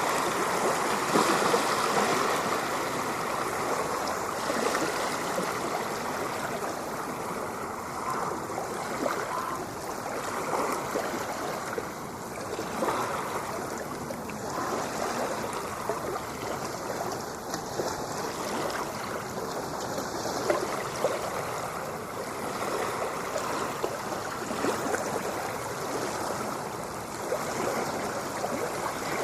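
Ocean water washing and splashing in a continuous rushing wash that swells and eases only slightly, with no distinct separate wave crashes.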